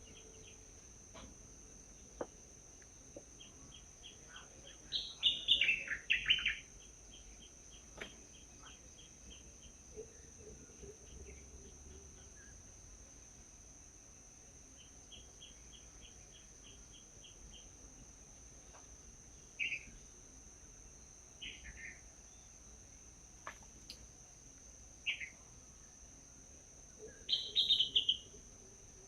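Small birds chirping in short, falling calls, loudest in a cluster a few seconds in and again near the end, with single chirps and quick trains of ticks between, over a steady high insect drone.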